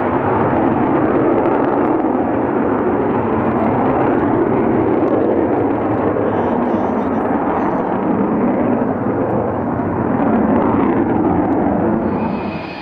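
Loud, steady roar of a jet aircraft flying a display, dropping away near the end.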